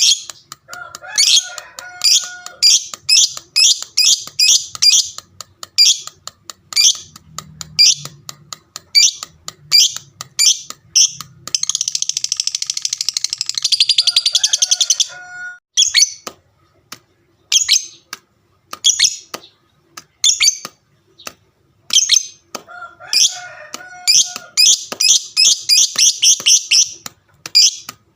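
A fighter lovebird singing its long 'ngekek' chatter: rapid strings of sharp, high-pitched chirps. Near the middle they run together into one unbroken rattle for about three seconds, then come sparser for a few seconds before quickening again.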